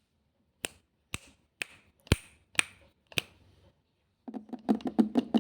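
Six sharp clicks or snaps, about half a second apart, followed near the end by a faster, denser run of clicks.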